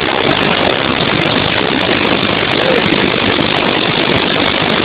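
Floodwater rushing over a dam after heavy rain: a loud, steady, unbroken rush.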